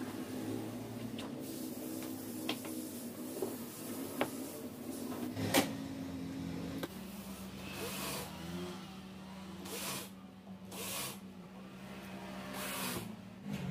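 Workshop sounds while a kitchen cabinet carcass is put together: a few sharp knocks in the first half, the loudest about midway, then several short hisses, over a steady hum.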